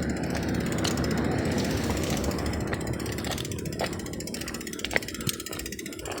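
A small engine running steadily, growing fainter over the last few seconds, with a few sharp clicks near the end.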